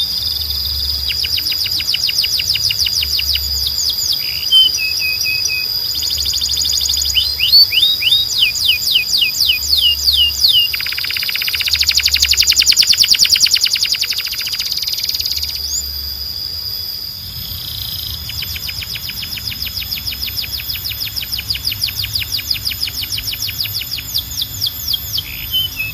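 Canary singing in a long song made of fast runs of repeated high notes. The pattern changes every few seconds, with a harsher rolling trill about halfway through.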